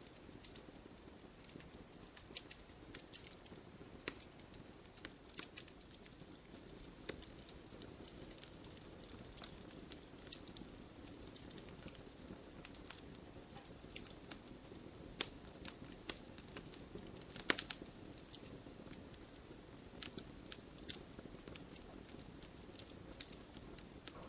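Wood fire crackling in a fireplace: irregular sharp pops and snaps over a soft steady hiss, with a few louder pops scattered through.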